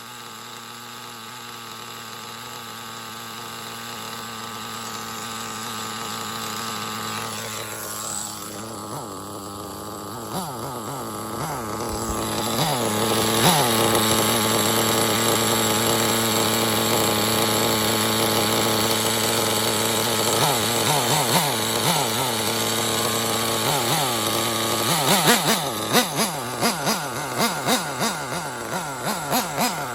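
Intech BR-6 Alpha .28 nitro glow engine running with a steady buzz. It grows louder over roughly the first dozen seconds, then holds. In the last few seconds there is a series of short, sharp blips.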